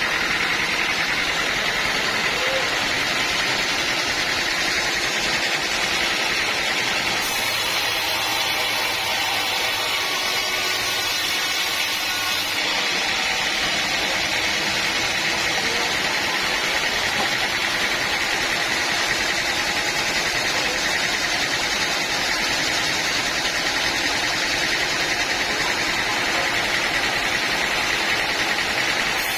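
Sawmill machinery running steadily, a continuous even machine noise with no breaks.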